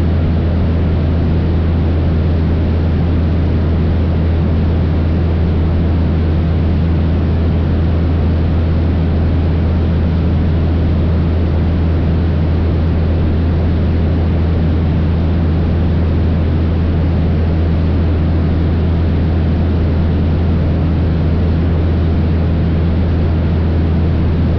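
Cessna 172 single piston engine and propeller running steadily in flight: a constant low drone with rushing air noise over it.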